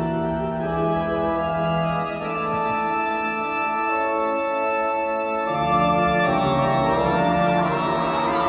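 Held organ-style keyboard chords, the low bass dropping out for a few seconds in the middle and coming back in. Near the end a crowd starts to scream over it.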